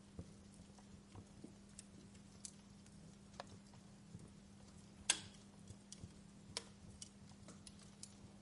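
Wood fire crackling: soft, irregular pops and ticks, with one sharp, louder pop about five seconds in.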